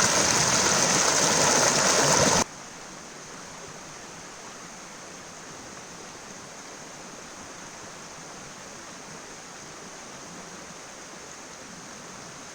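River water rushing through rapids, loud and close. It cuts off suddenly about two seconds in, leaving a much quieter, steady rush.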